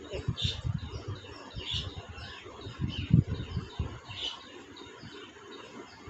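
Faint bird chirps, short and scattered a second or two apart, over soft low thumps and rustling.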